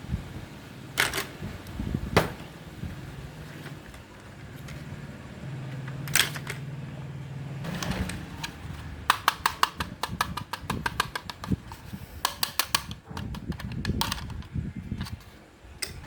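Sharp clicks and rattles of small plastic parts being handled, with rapid runs of clicking about two-thirds of the way through. A small motor hums steadily for a few seconds in the middle.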